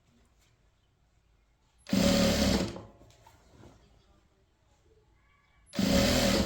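Sewing machine running in two short bursts of stitching, each under a second, one about two seconds in and another near the end.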